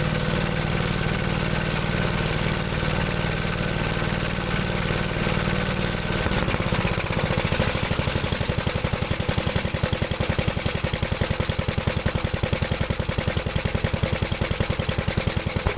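1973 Gravely C8 tractor engine running steadily. About six seconds in it settles to a slower, even beat. There is no exhaust popping now that the Fairbanks Morse magneto's timing has been reset.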